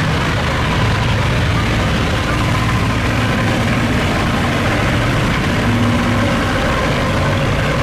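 Boat engines running steadily, a continuous low engine hum.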